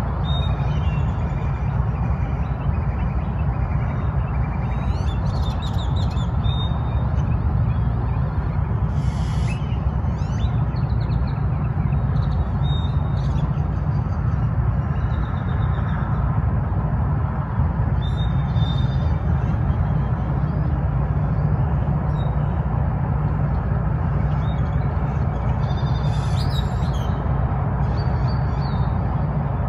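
Birds giving short high chirping calls every few seconds over a steady low rumble.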